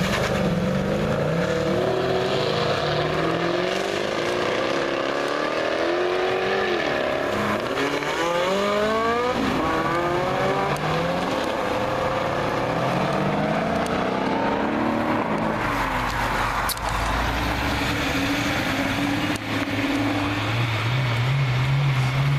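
High-performance car engines revving and accelerating, the pitch climbing and dropping back through a quick series of upshifts in the middle. Near the end a deeper engine note builds.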